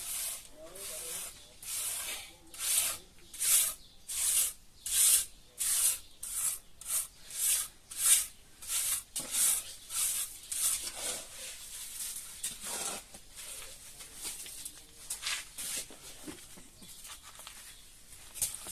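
Rhythmic scraping or rubbing strokes, about one to two a second, quickening in the first half and then growing weaker and more irregular.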